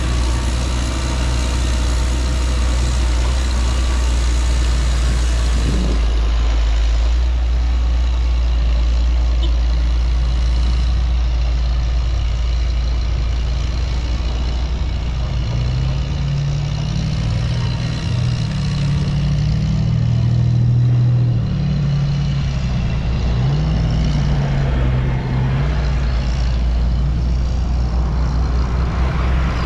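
Road traffic passing close by: a steady rumble of cars and heavy trucks. From about the middle to near the end, a heavy engine's low drone rises and falls in pitch.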